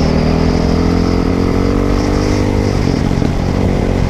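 Dirt bike engine running under throttle, its pitch climbing slowly, then dropping about two-thirds of the way through as the revs fall.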